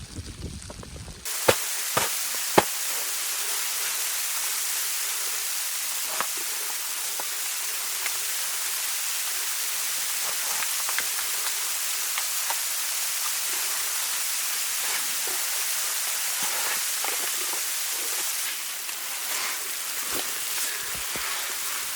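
Steady hiss of falling precipitation with scattered light ticks, starting abruptly about a second in after a short low rumble. Three sharp clicks follow within the next second or so.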